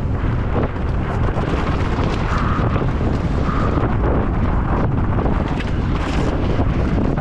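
Heavy wind buffeting the microphone of a mountain bike racer descending at high speed, a loud steady rumble with no letup.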